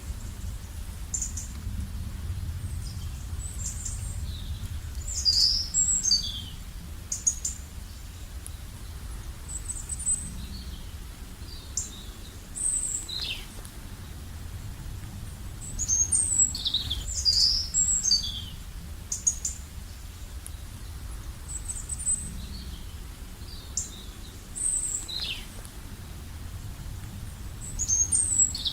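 Songbirds chirping and singing: scattered short high chirps and quick downward-sliding notes coming in clusters, over a steady low rumble.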